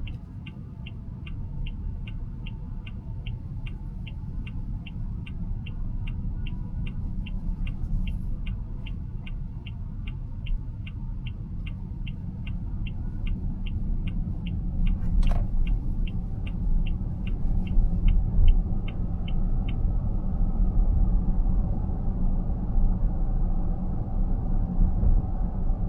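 Car turn-signal indicator ticking steadily, about two ticks a second, inside the cabin over low road and tyre rumble; the ticking stops about 20 seconds in, and the rumble grows louder as the car picks up speed. A single sharp click about 15 seconds in.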